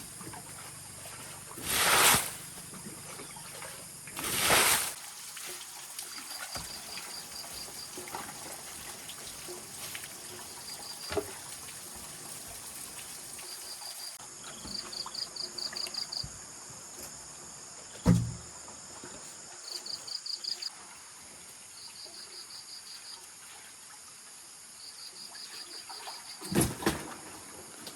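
Outdoor ambience by water: insects chirping in short, rapid pulsed trains over a steady high hiss. There are three brief bursts of splashing water in the first five seconds, a sharp knock about 18 seconds in, and another splash near the end.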